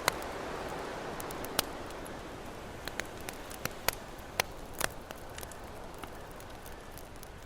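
Campfire crackling, with scattered sharp pops, over the wash of ocean waves that swells and then ebbs away by the middle.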